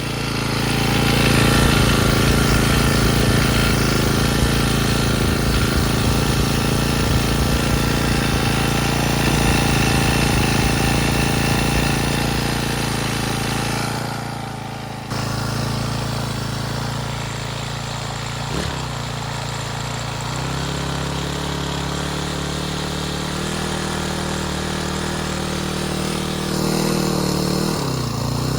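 Honda GX35 35cc four-stroke overhead-cam engine on a Honda HHT35S string trimmer running steadily after a cold start. It runs louder for about the first half, breaks off briefly about halfway, then runs on steadier and a little lower, with a short dip in speed near the end.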